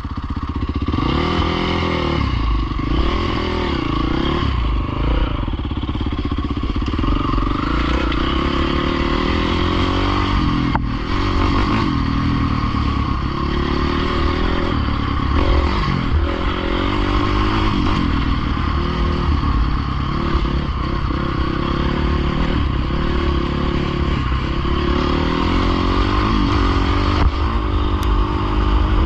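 Dirt bike engine running under way, its revs rising and falling over and over with the throttle.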